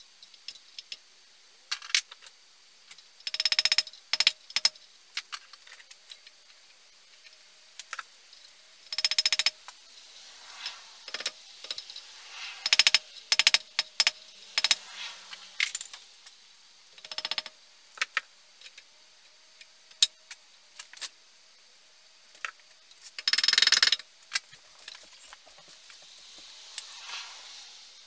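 Small metal chainsaw parts clinking, tapping and rattling as they are handled, with three louder rasping passes, each about a second long.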